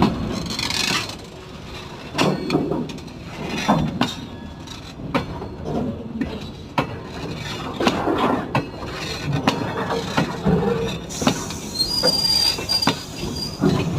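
Train wheels clattering over rail joints at fish plates, giving a string of irregular sharp knocks. A thin high wheel squeal comes in near the end.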